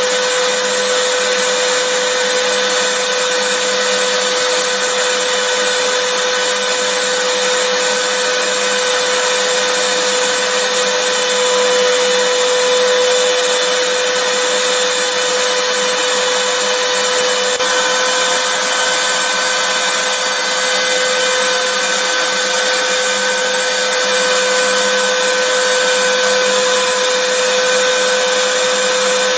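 Vacuum cleaner running steadily, a continuous rush of air with a steady motor whine.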